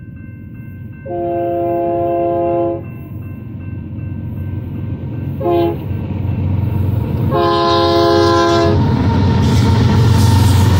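Union Pacific GE diesel locomotive's air horn sounding three chords: long, short, long. The deep rumble of the locomotives' engines and wheels then grows louder as the lead units pass close by.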